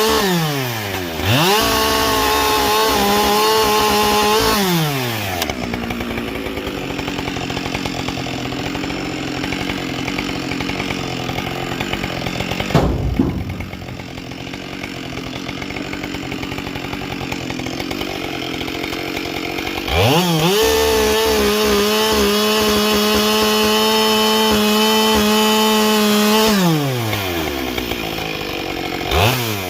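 Husqvarna 572XP two-stroke chainsaw with a carbide chain, throttled up to a steady high pitch twice (about a second in and again about two-thirds of the way through), dropping back to a lower, quieter run in between, with one sharp knock midway. The full-throttle stretches are the saw cutting wood with the carbide chain.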